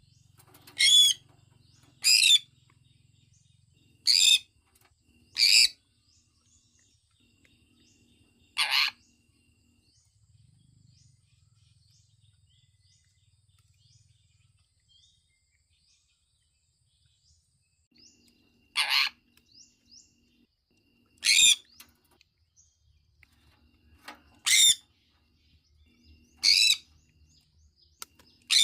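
Sun conure calling: about ten short, shrill, high-pitched calls, one at a time and a second or more apart. In the middle there is a pause of about ten seconds with only faint, soft chirps.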